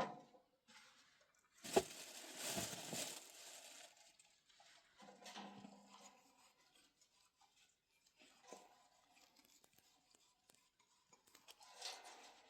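Irregular rustling and crinkling handling noises, with a sharp click about two seconds in.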